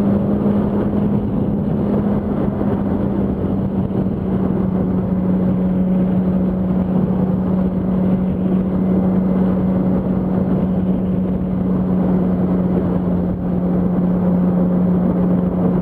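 Yamaha R1's inline-four engine running at a steady freeway cruise, one unchanging engine note under heavy wind rush on the on-bike microphone.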